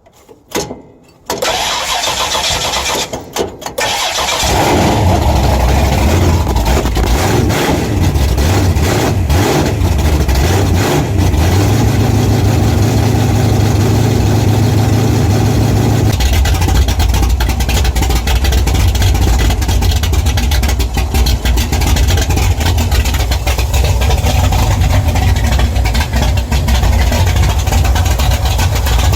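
Cold start of a Pontiac Catalina's V8 stroker engine: the starter cranks it for about three seconds before it catches, then the engine runs steadily at idle.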